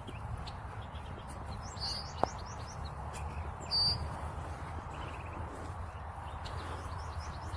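Birds chirping in two short bursts over a steady low background rumble, with a single sharp tick a little after two seconds in.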